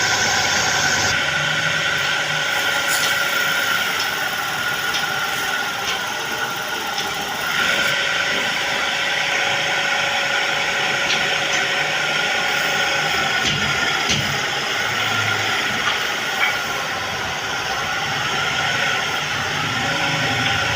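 Woodworking power machine running steadily with a held whine and a few light clicks.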